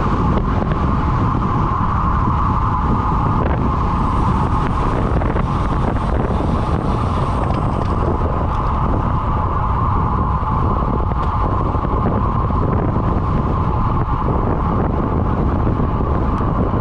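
Heavy wind noise buffeting the microphone of a camera moving at road-bike speed, steady and loud, with a constant hum running through it.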